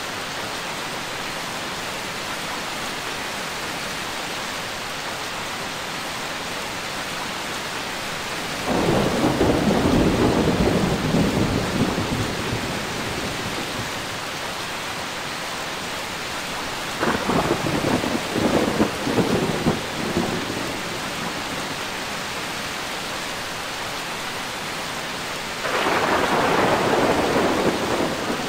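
Steady rain with three peals of thunder. The first breaks in suddenly about a third of the way through and rumbles for a few seconds, a second, crackling one comes past halfway, and a third starts near the end.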